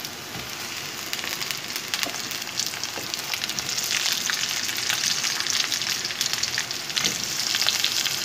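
Potato pieces going into hot oil with browned onions in a wok, the frying sizzle and crackle growing louder as they go in, with a few light knocks.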